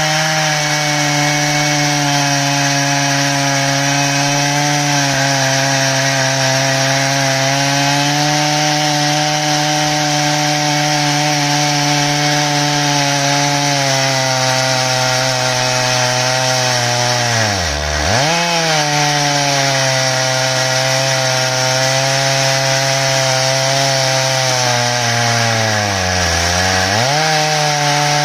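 Stihl MS 881 two-stroke chainsaw running at full throttle in an Alaskan chainsaw mill, ripping lengthwise through an ash log. The engine note holds steady, then its pitch dips sharply and recovers twice under the load, once a little past halfway and again near the end.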